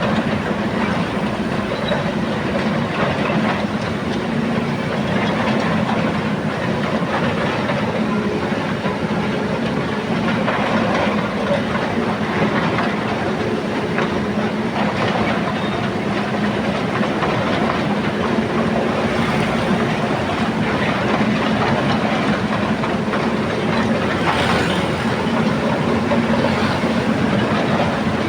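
Amphibious excavator's diesel engine running steadily, a constant low hum over a broad rushing noise.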